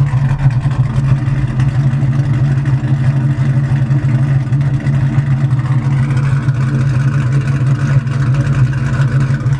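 Ford Mustang GT's 4.6 V8, PI-swapped with Comp Cams 262 camshafts, long-tube headers and SLP LoudMouth exhaust, idling steadily. It is still warming up at about 160 degrees, not yet at operating temperature.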